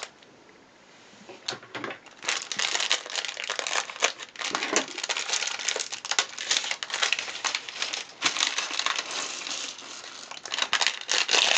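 Packaging of a Nanoblock kit crinkling as it is handled, a dense run of crackles and small clicks starting about a second and a half in.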